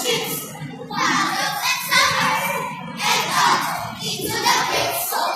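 A group of children reciting a poem aloud together in unison, in phrases about a second long with short pauses between them.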